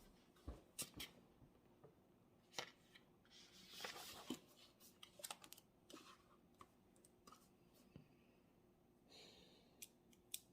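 Faint desk sounds of someone studying: scattered sharp clicks and taps, with a short scratchy rustle about four seconds in and another near the end.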